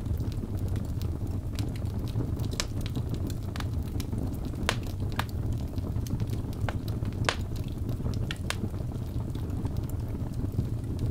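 Wood fire burning in a fireplace: a steady low rumble of the flames with irregular sharp pops and crackles from the logs, a dozen or so scattered through.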